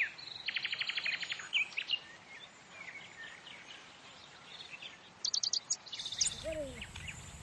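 Birds chirping, with a fast, high trill of about a dozen notes a second near the start and a few sharp chirps later.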